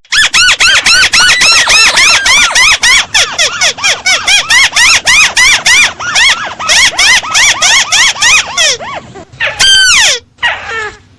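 Recorded crake (burung tikusan) call used as a bird lure: a rapid run of short, arched whistled notes, several a second, then two longer notes sliding downward near the end.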